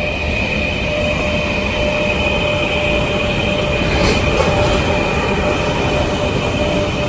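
Trans-Siberian Railway passenger train giving off a loud, steady running noise with a constant high whine in it, plus a brief sharper sound about four seconds in.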